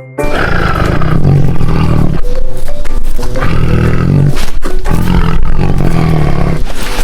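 Recorded tiger roars: three long, loud roars in a row, each about two seconds.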